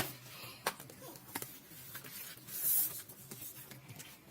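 Items being handled for unboxing: a few light clicks and taps in the first second and a half, and a brief rustle of paper or plastic a little past halfway.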